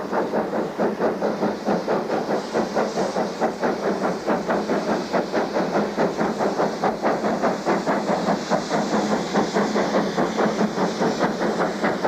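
SGS class 0-6-0 steam locomotives working a train: rapid, even exhaust chuffs, about four to five a second, over a steady hiss of steam.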